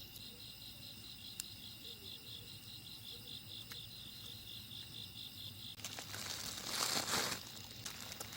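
Insects chirping steadily in a fast, even pulsing rhythm. About six seconds in, loud crinkling rustles of something being handled take over.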